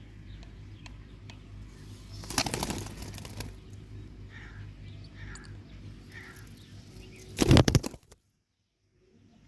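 Ringneck parrots flapping their wings in a scuffle: two loud flurries about five seconds apart, the second the louder, with soft chirps between them. The sound then cuts off suddenly.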